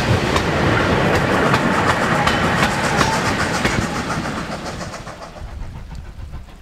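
Goods wagons and brake van of a steam-hauled freight train rolling past, their steel wheels clicking and clattering over the rail joints with a rumble underneath. The sound fades away over the last two seconds or so.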